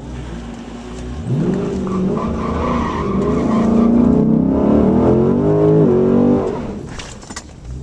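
Car engine launching at full throttle down a drag strip, heard from inside the cabin: the engine note rises sharply about a second in and keeps climbing under hard acceleration, then falls in pitch and quietens near the end.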